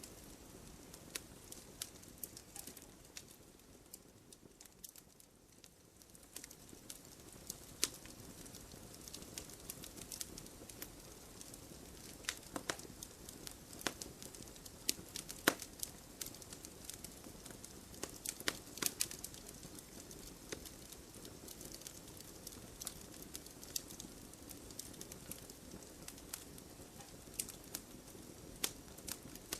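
Wood fire crackling in a fireplace: irregular sharp pops and snaps over a soft, steady low background.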